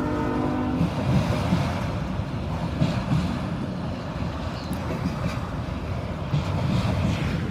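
A long freight train rolling past with a steady rumble of wheels and cars. A locomotive horn chord, held steady, cuts off about a second in.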